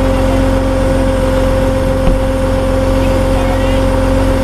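Tow truck engine running steadily, a constant low rumble with a steady tone held over it, and one short knock about two seconds in.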